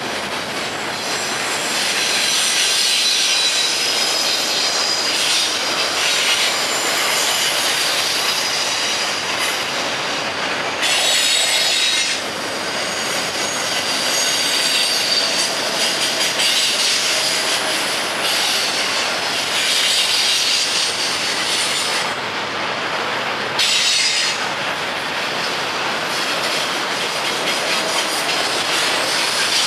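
Freight train cars rolling past on the rails, with the steady rumble and clack of wheels and a high squeal from the wheels against the rails, sharpest briefly about eleven and again about twenty-four seconds in.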